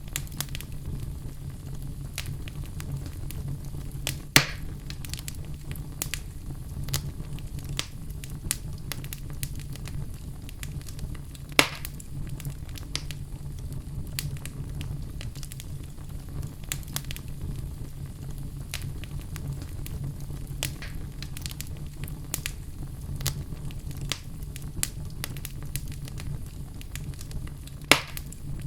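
Wood fire crackling steadily over a low rumble, with many small snaps and three louder pops spread through.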